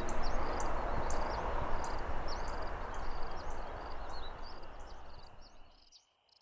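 Small birds chirping over and over above a steady noisy outdoor hiss, all fading out near the end.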